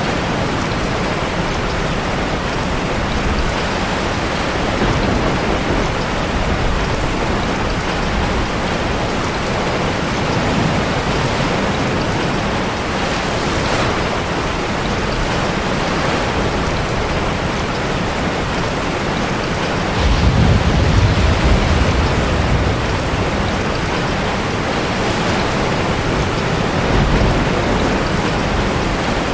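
Steady heavy rain mixed with sea surf, a dense continuous hiss, with a deep low rumble swelling up about two-thirds of the way through.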